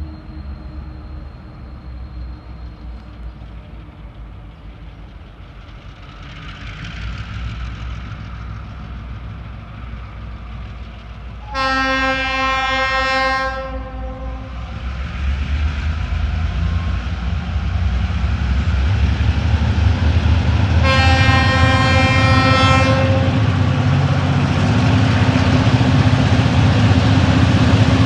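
TasRail diesel locomotives hauling an empty ore train approach, their engine rumble growing steadily louder. The locomotive horn sounds twice, each chord-like blast about two seconds long and about ten seconds apart.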